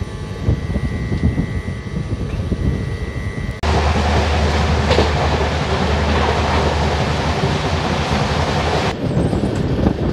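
Moving passenger train, the Kota Jan Shatabdi Express, heard from an open coach doorway: a steady rumble with the wheels clattering over the rail joints. About a third of the way in the sound turns suddenly louder and rougher, then drops back near the end.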